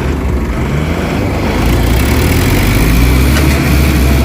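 Heavy vehicle's diesel engine running hard. It revs up about a second in and then holds steady and slightly louder, as it works to pull a truck stuck in mud.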